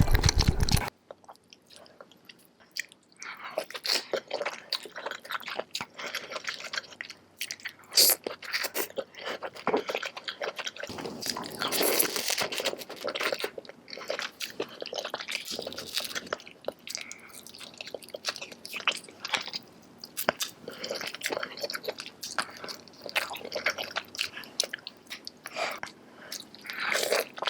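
Close-miked ASMR eating sounds of saucy seafood: irregular bites, wet chewing and squishing, with occasional sharper crunches. Music cuts off about a second in, just before the eating begins.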